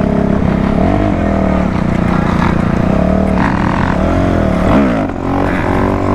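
Dirt bike engine revving up and down several times over another engine running steadily.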